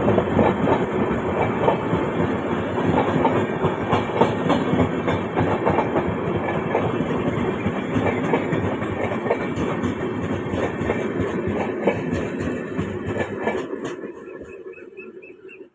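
Train passing slowly without stopping, its wheels clattering over the rail joints. The sound eases off gradually and falls away sharply about fourteen seconds in as the train moves off.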